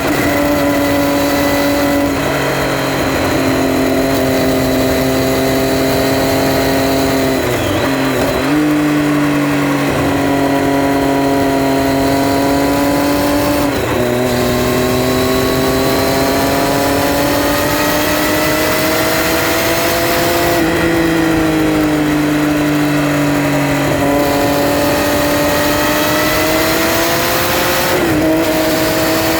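Triumph Street Triple R's 675 cc three-cylinder engine running under way. Its note climbs slowly, then drops sharply several times as the rider shifts gear or rolls off the throttle.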